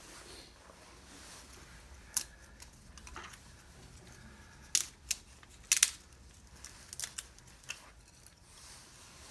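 Small dry kindling sticks clicking and clacking against each other as they are set in place by hand, a few sharp knocks scattered through it, several close together about five to six seconds in.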